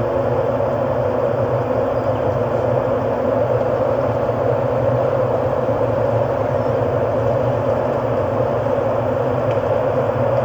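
Steady ambient drone: a dense, even rumble and hum with no beat or melody and no change in level.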